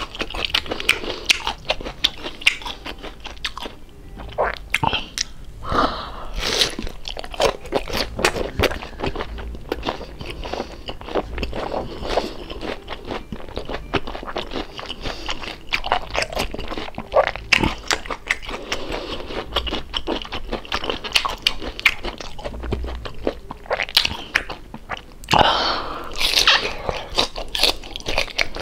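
A person chewing and crunching crispy deep-fried pork belly (lechon kawali), bite after bite, in a steady run of sharp crunches.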